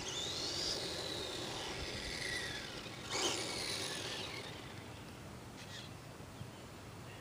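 Motor of a Madgear Desert Wolf radio-controlled short course truck whining as it speeds up and slows down, twice: a rising-then-falling whine at the start and another about three seconds in. It grows fainter toward the end.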